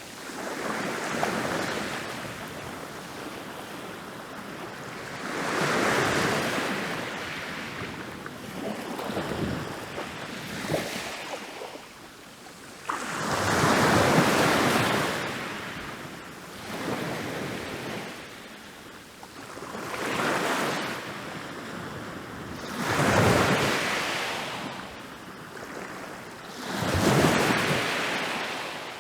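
Rolling ocean waves crashing on a beach, one after another every three to five seconds, each surge rising and then washing back out.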